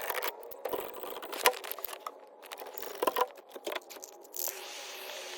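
Irregular clicks, clinks and knocks of hand work, then a steady hiss from about four and a half seconds in.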